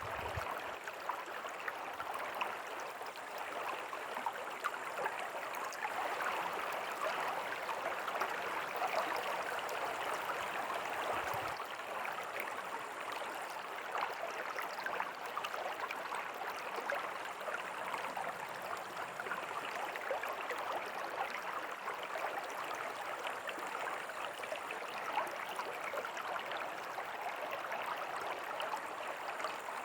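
River water flowing steadily over stones, a constant rush with fine splashing and gurgling flickers.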